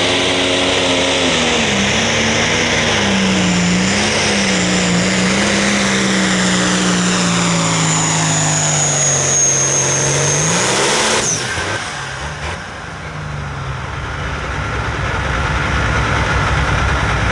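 Turbocharged diesel pulling tractor at full power down the track, its engine note wavering and then slowly sinking under load, with a high turbo whistle. The engine cuts off sharply about 11 seconds in.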